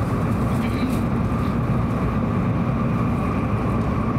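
Hokuriku Shinkansen train running, heard inside the passenger cabin: a steady rumble of wheels and running gear with a faint constant whine.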